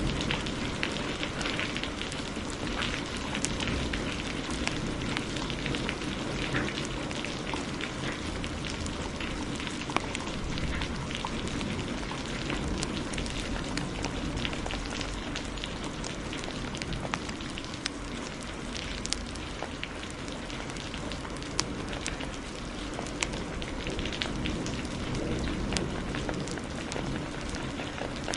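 Steady heavy rain mixed with a crackling wood fire, sharp pops and snaps scattered through the rain's hiss.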